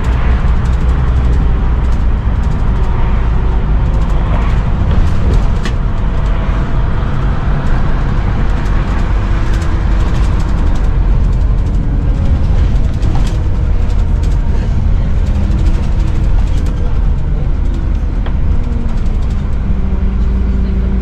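Scania Omnicity bus on a Scania CN230UB chassis driving along, a steady deep engine rumble whose pitch rises and falls as it accelerates and changes gear, with occasional clicks.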